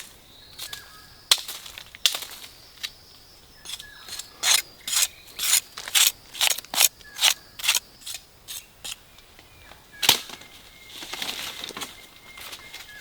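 A hand tool striking repeatedly: about ten sharp blows in quick succession midway, with single blows before and after.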